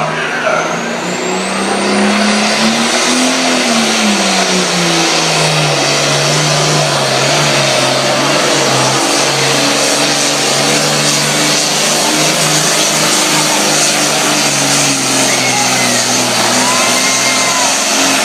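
International Harvester pulling tractor's engine running hard at full throttle during a pull, a steady loud drone with a high whine rising over the first couple of seconds; the engine pitch swells briefly about three seconds in, then holds steady until it drops away at the very end.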